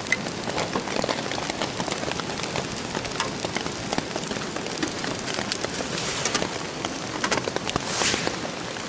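Heavy rain pattering steadily on a poncho shelter, dotted with many sharp drop ticks, over a split-wood fire crackling in a small open-doored wood stove.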